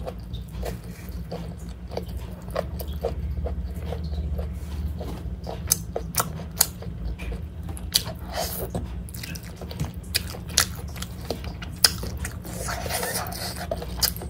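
Close-up chewing and mouth sounds of a person eating rice and meat by hand: irregular wet smacks and sharp clicks, with a louder click about twelve seconds in, over a steady low hum.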